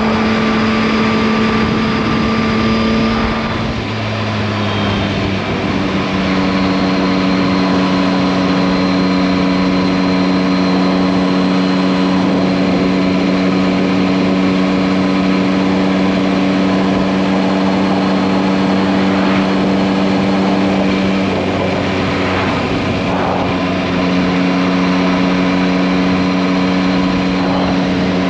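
Yamaha MT-09 (2021, RN69) 890 cc inline three-cylinder engine running at a steady speed while the bike is ridden. The engine note steps to a new steady pitch about four seconds in, with a brief dip in loudness, and changes again a little past twenty seconds in.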